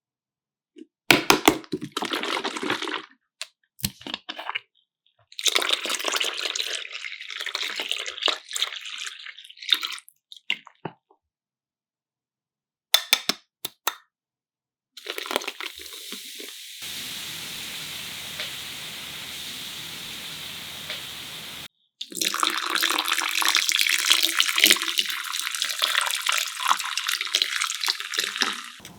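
Liquid pouring and splashing in several short takes that start and stop abruptly, with sharp clicks and cracks between them. The longest and loudest stretch of pouring comes near the end.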